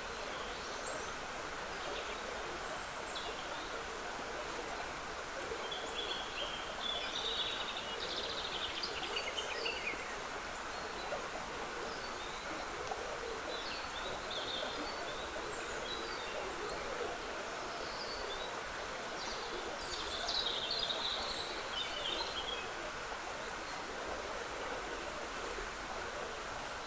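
Trickling woodland stream running steadily, with small songbirds singing high, quick phrases over it, most busily twice, about a quarter of the way in and again past the middle.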